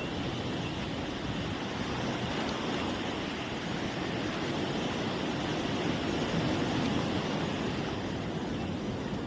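Steady wash of sea surf, swelling slightly about six seconds in.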